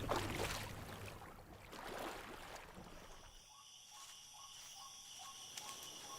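Faint outdoor ambience with insects chirping. About halfway through, a soft run of short, evenly repeated chirps sets in.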